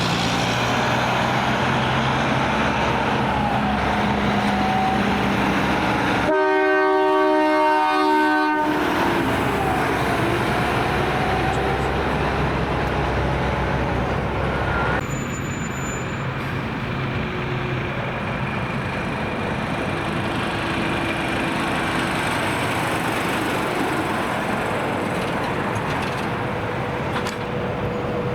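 A multi-chime train horn sounds one chord for about two seconds, around six seconds in, over diesel truck engines and steady traffic noise.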